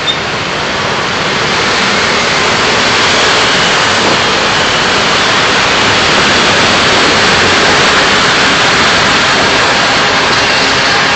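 Steady rushing noise of a car driving, mostly tyre and wind noise, growing a little louder over the first few seconds and then holding level.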